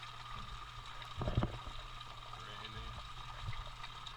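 Rainwater running off a roof and splashing steadily during a downpour, with a brief low thump about a second in.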